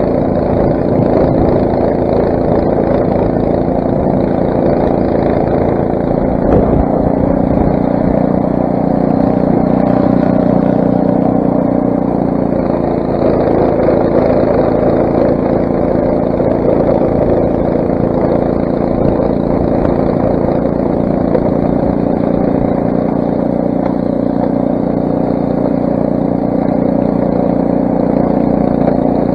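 Craftsman snowblower's 6 hp Briggs & Stratton single-cylinder engine running steadily.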